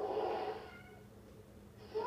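A cat's breathy call with no clear pitch, lasting about half a second and fading. It is quiet until a meow starts right at the end.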